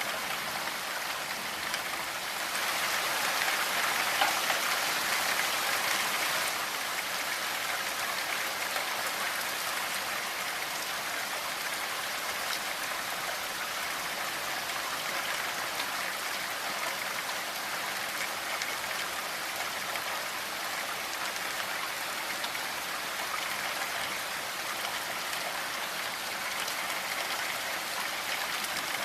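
Steady rainfall, an even hiss of drops, briefly heavier a few seconds in before settling back.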